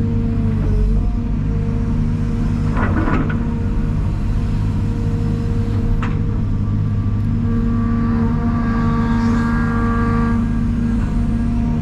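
Heavy diesel engine running steadily with a deep drone, with a brief rattle about three seconds in.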